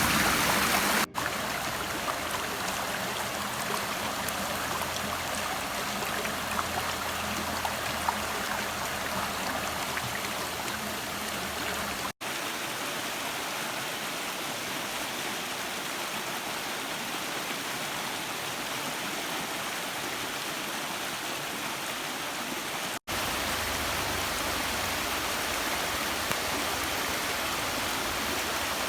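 Waterfall: a steady rush of falling water, dropping out abruptly for an instant about a second in, at around twelve seconds and again at around twenty-three seconds.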